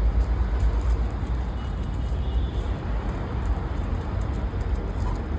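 Low, steady outdoor rumble with no distinct events, strongest at the very bottom end.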